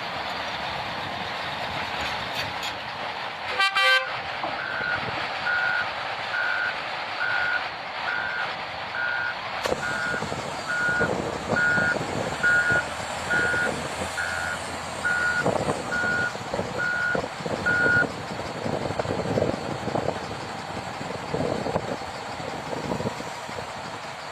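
Reversing alarm on a piece of heavy machinery beeping about once a second, some sixteen beeps in all, over a steady background of engine and site noise. A short, loud, sharp sound comes just before the beeping starts.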